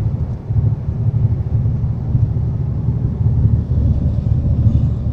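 Steady low rumble of a Western Star semi-truck's engine and road noise, heard from inside the cab while driving.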